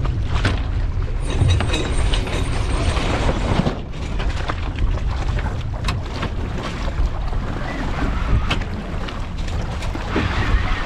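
Wind buffeting the microphone and water rushing along the hull of a small sailboat under way, with a few scattered knocks and clicks.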